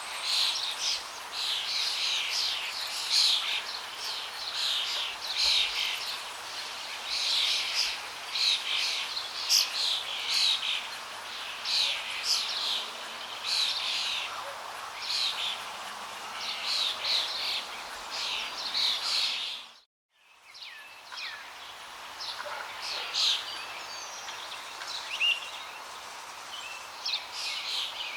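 Many small birds chirping and calling in quick, overlapping bursts over a steady hiss of flowing water. About two-thirds of the way through, everything fades out to silence for a moment, then returns with fewer, sparser calls.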